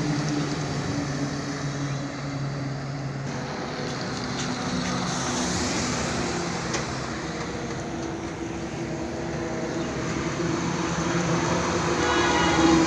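Truck engine running with a steady low drone over road noise, its pitch shifting up and down; a brighter, higher tone joins near the end.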